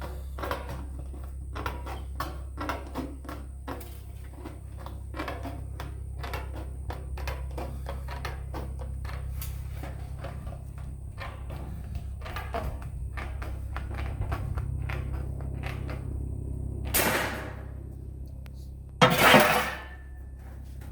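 Hand straight tin snips cutting sheet metal in short, repeated snips, about one to two crisp clicks a second, over a steady low hum. Near the end come two louder, longer rattles of the sheet being handled.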